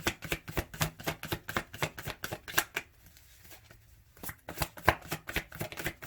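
A deck of tarot cards being shuffled by hand: a quick run of card clicks and flicks, a pause of about a second and a half a little before halfway, then the shuffling starts again.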